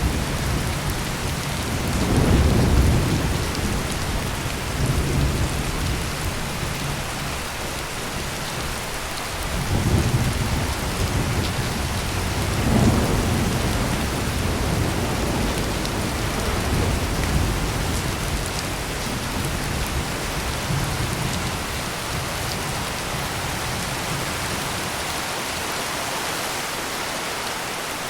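Heavy rain pouring steadily, with deep rolling thunder rumbling up again and again. The thunder dies away near the end, leaving only the rain.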